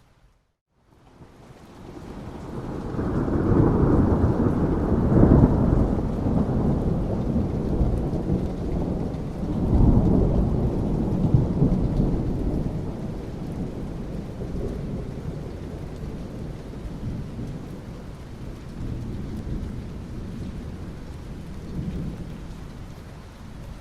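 Thunder rumbling over steady rain. After a brief gap of silence at the very start, a long, deep rumble builds, swells twice (about four and ten seconds in), then slowly fades while the rain carries on.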